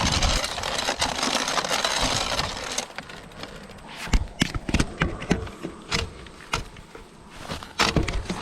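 Steady rushing noise of riding that drops away about three seconds in. Then come scattered clicks and knocks from a bicycle being handled at a stop after its chain has slipped off the front chainring.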